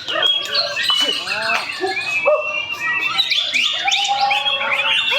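Several white-rumped shamas (murai batu) singing at once: a dense tangle of varied, overlapping whistles that sweep up and down in pitch.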